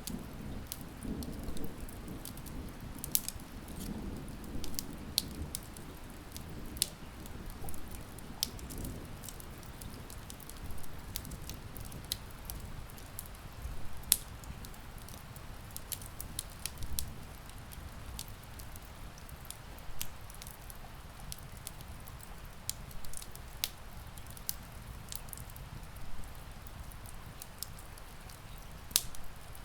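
Steady rain with a wood fire crackling: irregular sharp pops and snaps over a soft wash of rain. A low rumble swells and fades in the first few seconds, like distant thunder.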